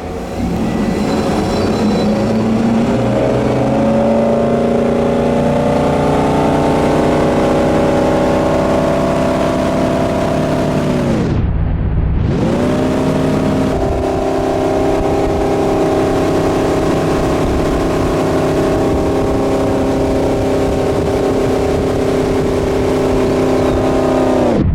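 Wake boat's engine running under way as it tows a wakeboarder. Its drone climbs in pitch over the first ten seconds as the boat speeds up, plunges and recovers abruptly about halfway through, then holds a steady pitch until another sudden drop at the very end.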